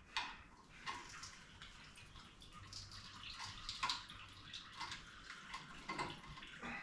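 Engine coolant trickling and splashing out as the radiator hose is pulled off, with a few light clicks of tools on metal.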